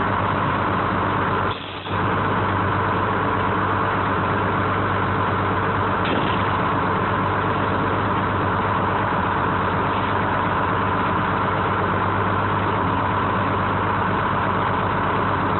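1970 American 7510 crane's engine running steadily, with a brief dip in level about a second and a half in.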